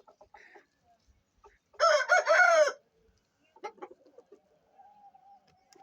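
Aseel rooster crowing once, a loud call of about a second starting about two seconds in, with soft clucking before and after it.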